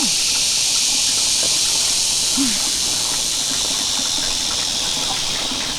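Steady high-pitched drone of forest insects, such as cicadas, holding an even level throughout.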